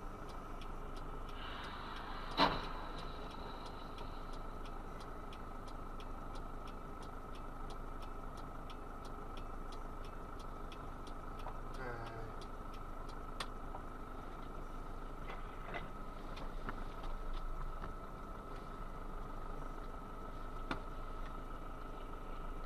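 Car dashcam recording: steady vehicle and road noise with a constant thin whine, and one sharp bang about two and a half seconds in.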